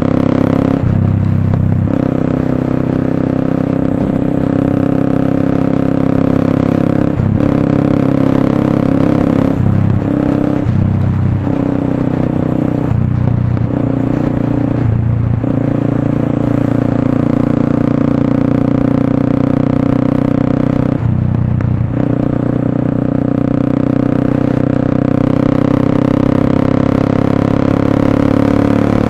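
Motorstar Cafe 400's single-cylinder engine running through an SC Project slip-on exhaust, a loud steady note broken by several short dips in pitch and level.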